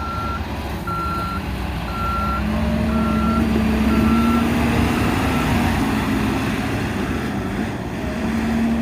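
Snow-clearing truck's reverse alarm beeping about once a second over the steady running of its engine. The beeping stops about halfway through, and the engine note rises slightly about two seconds in.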